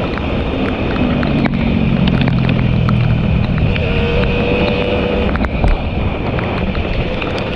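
Two-stroke motorcycle engine running at riding speed, buried in heavy wind noise on the microphone, with scattered sharp clicks.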